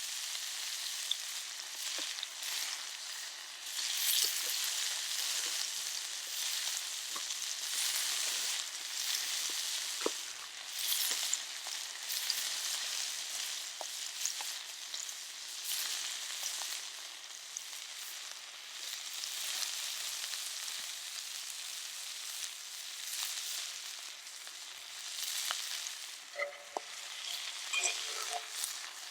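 Food sizzling in a hot cast-iron skillet over a campfire: a steady frying hiss that swells and eases, with scattered small pops and clicks.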